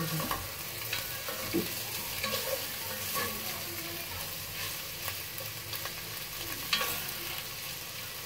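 Hot dogs and pork frying in a stainless steel pot, a steady sizzle, while a spatula stirs them, scraping and clicking against the pot a few times.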